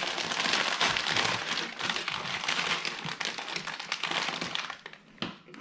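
Plastic LEGO parts bag crinkling as hands rummage through it for minifigure pieces, with small clicks and taps of parts; it dies away about four and a half seconds in.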